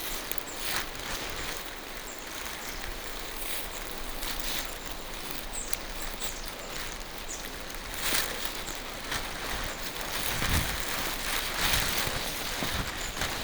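Rain falling through forest trees: a steady hiss that swells a little in the second half, with a few short knocks.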